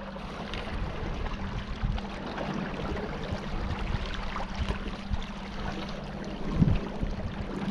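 A small boat's motor running steadily with a low hum, under the rush of water along the hull.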